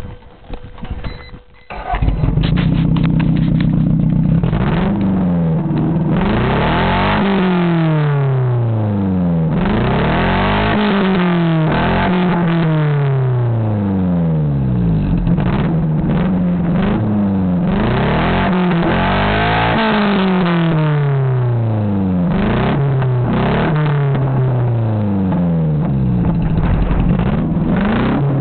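A combustion engine starts about two seconds in and idles briefly. It is then revved hard again and again, its pitch climbing and falling back roughly every two seconds.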